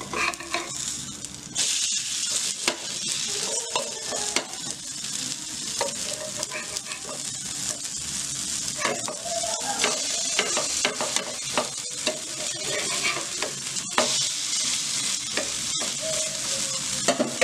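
Egg and grated-potato dosas sizzling as they fry on a flat dosa tawa, while a metal spatula scrapes and taps against the pan as they are lifted and flipped. The sizzle gets louder about a second and a half in.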